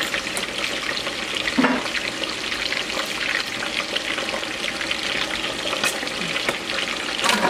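Meat frying in pans on the stove, with a steady sizzle. A few knocks from handling kitchenware, one about two seconds in and one near the end.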